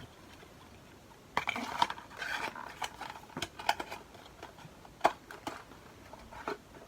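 Small cosmetic packaging being handled at close range: irregular rustles, taps and clicks, the sharpest click about five seconds in, after a quiet first second or so.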